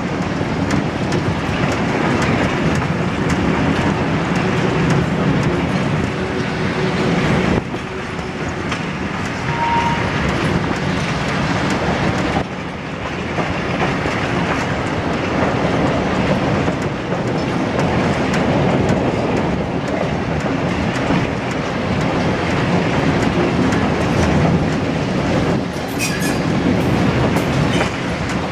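Passenger train hauled by a CFR Class 69 locomotive running along the track: a steady, loud rumble of wheels on rails, heard at an open carriage window, easing briefly twice.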